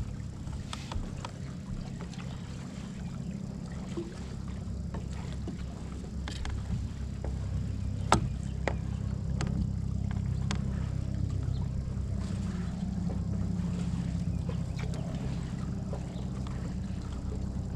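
Kayak hull and gear on the water: a steady low rumble with scattered light knocks, and one sharp knock about eight seconds in.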